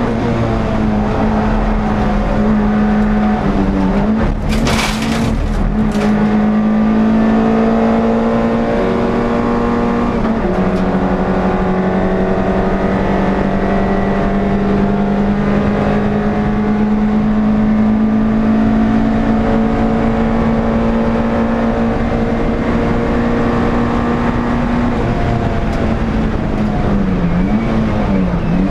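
Air-cooled NSU TT race car engine heard onboard from inside the car, running hard at high revs with a mostly steady pitch. The pitch dips briefly about 3 s in and again near the end, steps down once around 10 s in, and a short burst of sharp knocks or rattles comes about 5 s in.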